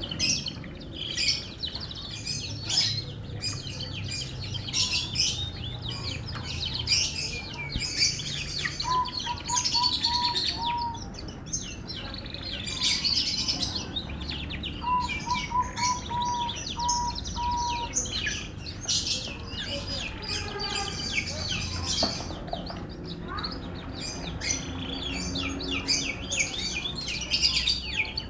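Canary singing continuously in rapid twittering trills and chirps, with two runs of lower, evenly repeated notes about nine and fifteen seconds in.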